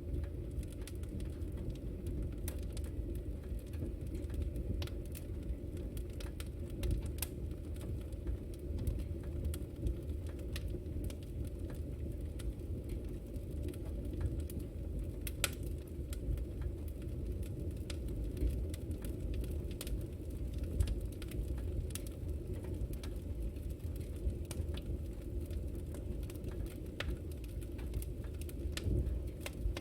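Wood fire crackling steadily, a low rumble of flame with frequent sharp pops and snaps scattered through it.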